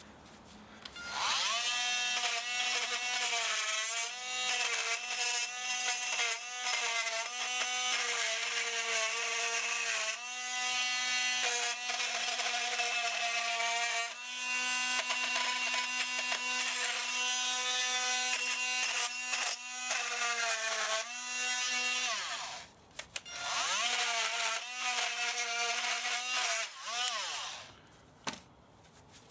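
Electric power tool motor running with a steady high whine, its pitch sagging briefly now and then as it takes load. It runs for about twenty seconds, stops, then runs again for a few seconds near the end.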